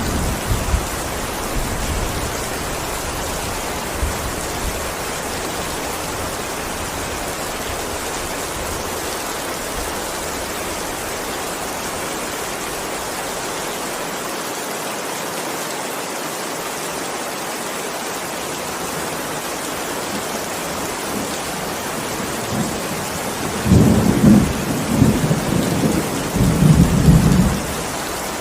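Steady heavy rain, with thunder: a low rumble dying away in the first seconds, then a louder peal of thunder rolling in several surges for about four seconds near the end.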